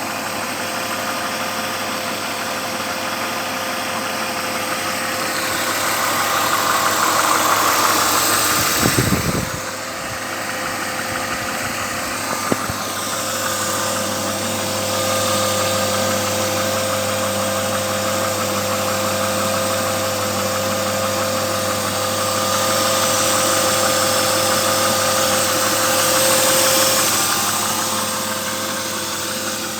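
BMW E36 323i's 2.5-litre straight-six engine idling steadily with a constant whine over a clattering tick, noises whose cause the owner does not know. There is a brief low knock about nine seconds in.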